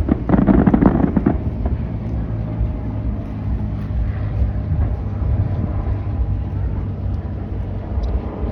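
Fireworks bursting and crackling in quick succession for about the first second, then fading into a steady low rumble with a faint hum.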